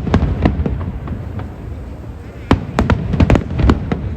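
Aerial fireworks shells bursting: sharp bangs over a low rolling rumble, a few near the start, a short lull, then a rapid cluster of bangs about two and a half seconds in.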